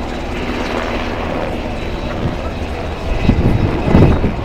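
Aircraft engine drone overhead, a steady low rumble, with a louder low rumble swelling twice near the end.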